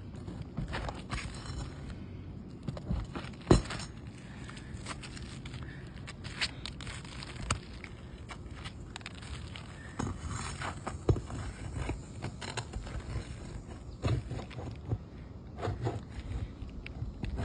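Scattered clicks, scrapes and knocks of a tool working the nails out from under asphalt roof shingles, with one sharp knock about three and a half seconds in, over a low steady rumble.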